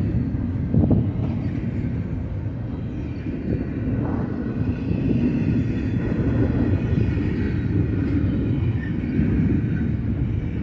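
Double-stack container well cars of a Union Pacific intermodal freight train rolling past: a steady low rumble of steel wheels on rail, with a sharper knock about a second in.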